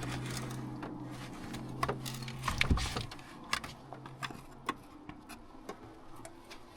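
Irregular light metallic clicks and taps of hand tools and parts being handled in a truck's engine bay, a few louder knocks about two and a half seconds in, over a low steady hum that fades out a little past halfway.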